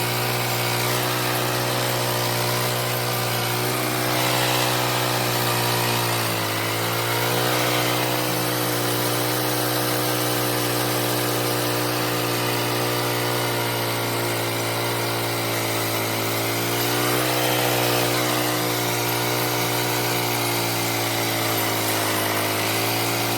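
Engine of a homemade bandsaw mill running steadily under load as the blade cuts through a large log. Its pitch sags briefly about six seconds in and again around seventeen seconds.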